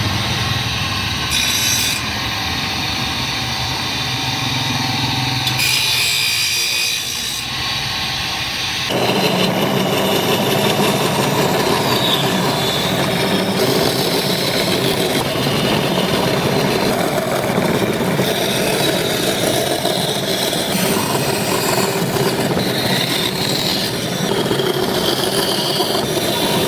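Tools cutting and abrading wood during carving, a continuous scraping, grinding noise that changes character abruptly several times, most markedly about nine seconds in.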